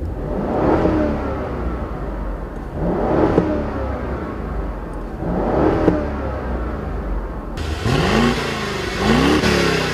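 BMW Alpina B6's twin-turbocharged 4.4-litre V8 accelerating hard. It pulls up in pitch again and again, breaking off between pulls as it shifts up. About 7.5 seconds in, a hiss of wind and tyre noise joins the engine.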